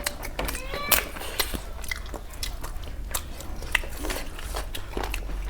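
Close-miked eating sounds: a mouth biting and chewing crunchy food, with irregular sharp crackles and crunches throughout.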